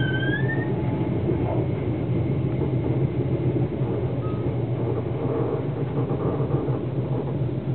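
Steady rumble of a passenger train running at speed, heard from inside the carriage, with a short high squeal right at the start.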